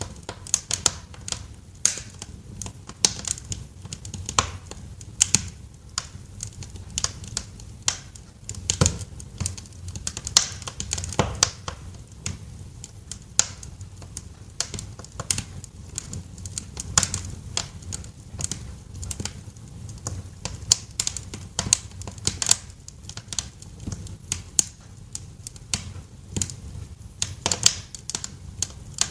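Wood fire crackling in a fireplace: irregular sharp pops and snaps, several a second, over a low steady background of the burning fire.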